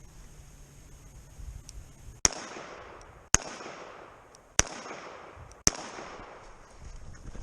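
Four revolver shots about a second apart, each followed by a short echoing tail.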